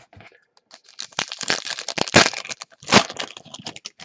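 A foil trading-card pack wrapper being torn open and crinkled by hand: a dense crackle of many small sharp snaps for about three seconds.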